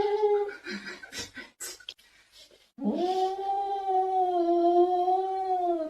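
A dog howling: one howl trailing off about half a second in, then after a pause a long, steady howl from about three seconds in that drops slightly at its end.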